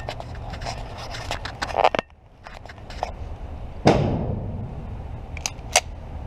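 Quick clicking and rattling of gun handling, then a single gunshot about four seconds in with a reverberant tail, followed by two sharp clicks.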